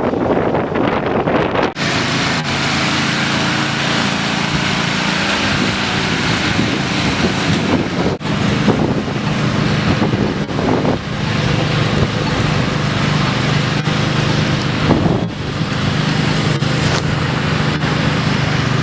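Storm wind blowing across the microphone over the steady hum of an engine, which grows fuller about two seconds in.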